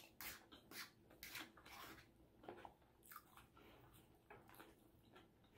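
Faint chewing with irregular soft mouth clicks, mixed with light taps and scrapes of a fork and knife cutting French toast on a plate.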